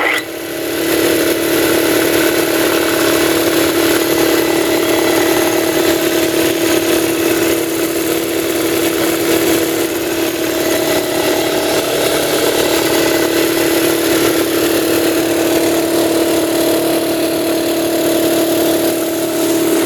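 Campbell Hausfeld 60-gallon vertical air compressor starting up and running: the electric motor and pump come up to speed over about the first second and a half, then run with a steady droning hum. The motor was damaged in shipping but still runs.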